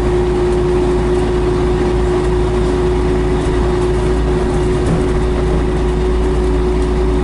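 Diesel engine of a 1976 Scania BR111H double-decker bus running steadily: a constant hum over a low rumble, with no change in pitch.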